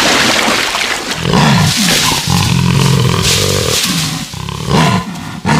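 Jaguar growling: a rushing noise in the first second, then a run of deep, drawn-out growls.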